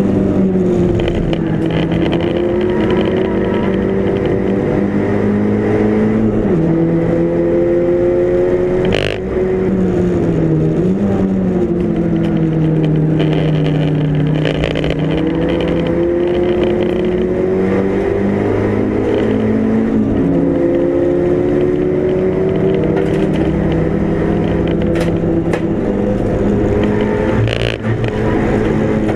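Mk5 Golf GTi race car's engine running hard at racing speed, its pitch climbing and sinking over long stretches as the car accelerates and slows. Two brief breaks with a sharp click come about nine seconds in and near the end.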